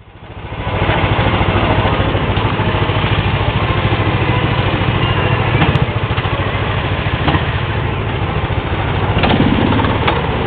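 Small gasoline engine of an amusement-park antique ride car running steadily with a fast, even pulse, fading in over the first second, with a few light clicks later on.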